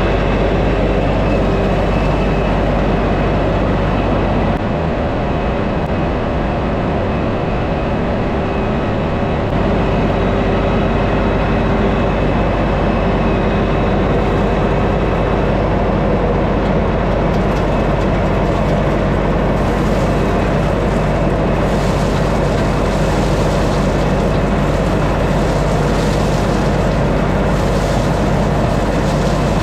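Tractor diesel engine running steadily under load, a constant dense drone with a low hum. A brighter hiss joins in from about twenty seconds in.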